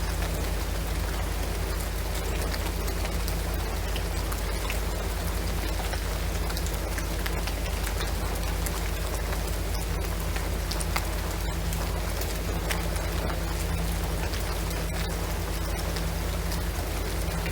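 Steady rain pattering on a shingled roof and pine trees, with many small drop ticks and a faint low hum underneath.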